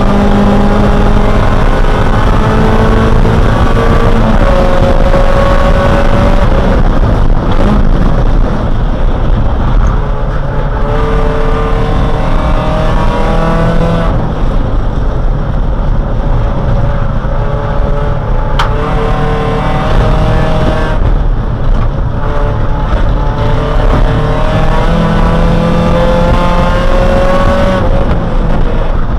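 Neon race car's engine under racing load, heard from inside the cabin. Its pitch repeatedly climbs for a few seconds and then drops, over loud road and wind noise.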